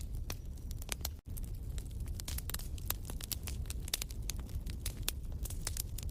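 Wood fire crackling in a fireplace: irregular sharp pops and snaps over a steady low rumble of the flames, with a momentary dropout a little over a second in.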